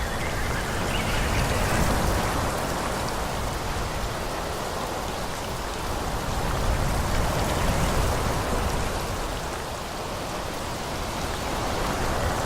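Wind rustling through forest trees in a steady hiss that swells and eases in gusts.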